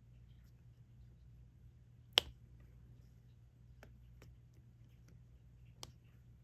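Diamond painting pen tapping resin drills onto the sticky canvas. There is one sharp click about two seconds in, then a few fainter clicks spread over the following seconds.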